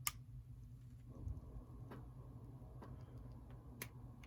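A few sharp clicks from the small plastic parts of an HO-scale model locomotive chassis as its motor-truck retaining tabs are squeezed, the first and loudest right at the start, over a faint low hum.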